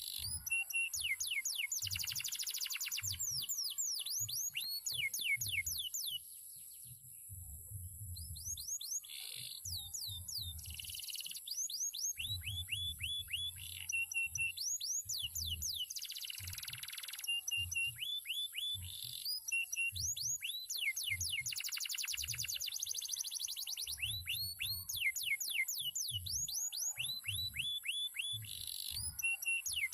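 Male domestic canary singing a long, varied song of fast runs of repeated downward-sweeping notes and rapid trills, with a brief lull a few seconds in. Low thumps sound underneath.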